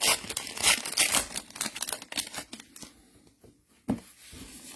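Plastic trading-card packaging being torn and crinkled, a quick run of sharp crackles. It stops about three seconds in, followed by a single knock near the end.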